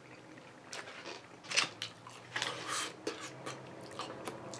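A person chewing a mouthful of fried chicken sandwich close to the microphone, with irregular wet clicks and crackles from the mouth.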